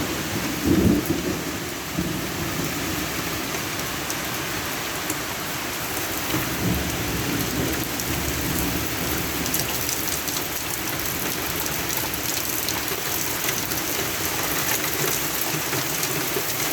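Rain pouring steadily during a thunderstorm, with thunder rumbling low, loudest about a second in and rolling again a few seconds later.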